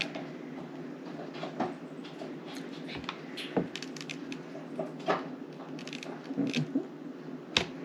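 Scattered light clicks and taps of small craft pieces being handled on a table, over a steady low hum.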